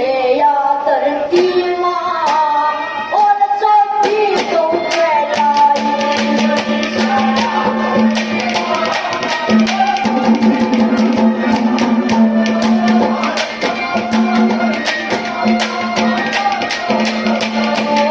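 Haryanvi ragni folk music: a bending melody line over a steady drone. About four seconds in, a fast, regular hand-drum beat joins it.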